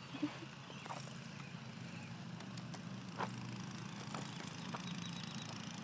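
Bicycle rolling along with a steady low rumble from the tyres, and a few scattered clicks.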